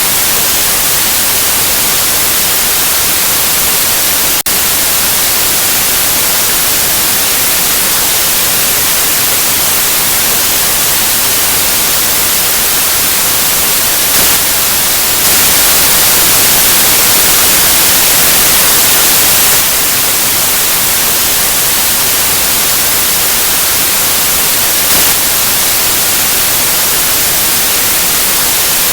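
Loud, steady white noise: an even hiss with its energy weighted toward the treble. A brief dropout about four seconds in, and a slightly louder, brighter stretch from about 15 to 19 seconds in.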